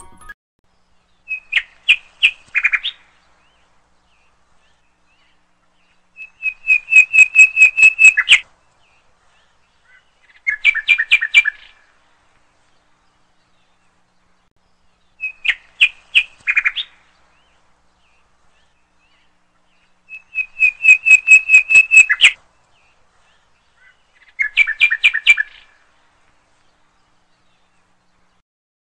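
Bird calls in short bursts. Each sequence is a quick phrase of notes, then a fast run of about ten even, high notes, then a shorter run of lower double notes. The same sequence plays twice, with dead silence between bursts.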